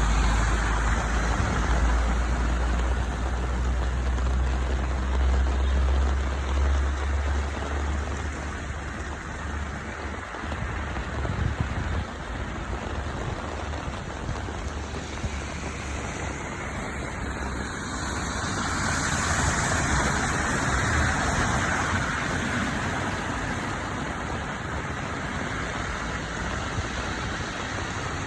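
Steady rain falling, heard as an even hiss, with a low rumble under it for roughly the first ten seconds. A louder swell of hiss comes about twenty seconds in.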